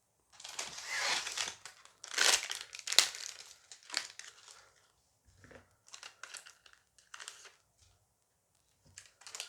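A Dice Masters booster pack's wrapper being torn open and crumpled, loudest in the first four seconds with a sharp crack about three seconds in, then quieter, separate crinkles.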